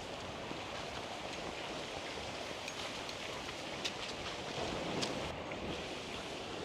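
Steady outdoor wind noise, rushing on the microphone, with scattered light clicks and rustles.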